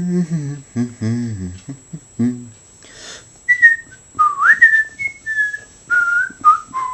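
A person humming a tune, then from about three and a half seconds in whistling a melody of several short held notes, sliding up into one of them.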